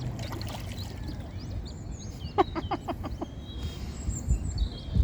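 Coot chicks and adults calling at the water: thin high peeps scattered throughout, and a quick run of about six lower calls a couple of seconds in, over a steady low rumble of background noise.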